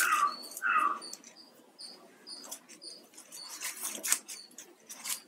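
Birds chirping in the background: many short high chirps, with two short falling calls in the first second. Plastic wire strips being handled give a few sharp clicks and rustles in the last second or two.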